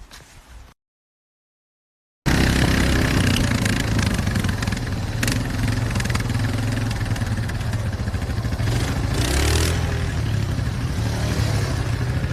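Dead silence for about a second and a half, then motorcycle engine noise that starts abruptly and runs loud and steady.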